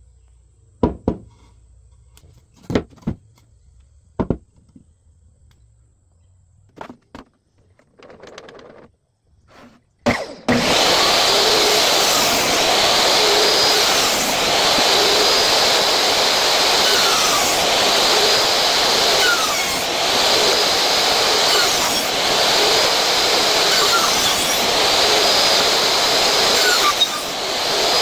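A few sharp knocks on wood, then about ten seconds in an electric power tool starts and runs steadily and loudly, its sound swelling and easing in a regular rhythm about every second and a half. It stops just before the end.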